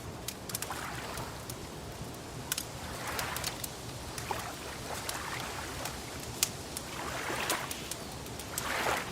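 Wood fire crackling, with sharp irregular pops, over gentle water lapping that swells every few seconds.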